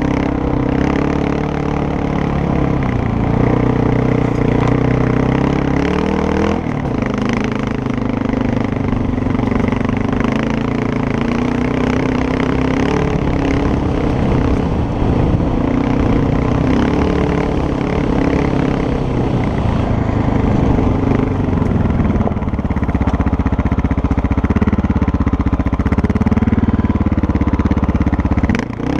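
Motorcycle engine running on an off-road ride, its pitch stepping up and down with throttle and gear changes, over a steady rush of wind and terrain noise.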